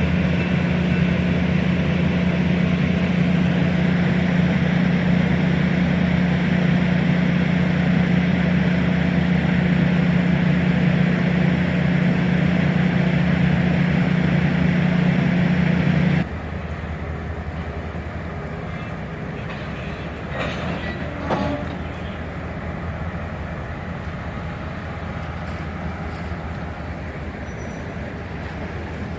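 Passenger train running, a steady rumble with a strong low hum. About sixteen seconds in it cuts off abruptly to a quieter, even rumble with a few faint clicks.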